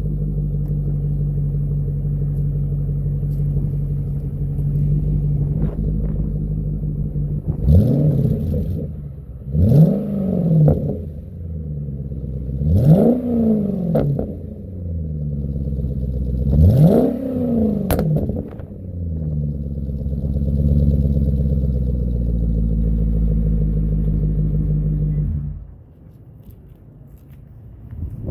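Cadillac STS Northstar V8 with its mufflers deleted, idling with an open exhaust, then revved four times, each blip rising and falling back to idle. The engine sound stops suddenly near the end.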